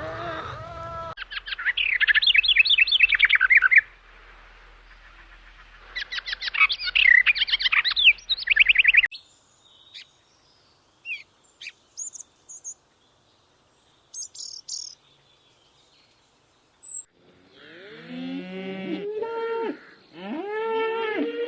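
Birds chirping in fast, high runs of notes, twice, then a few faint scattered calls, followed near the end by several cattle mooing over one another.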